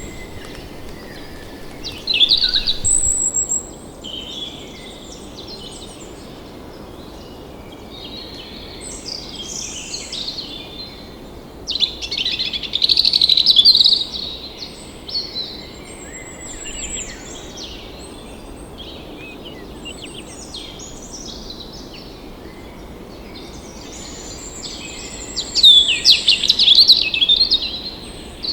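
Wild forest birds calling and singing over a steady background hiss, with three loud bursts of rapid, warbling song about two, twelve and twenty-six seconds in and softer chirps between them.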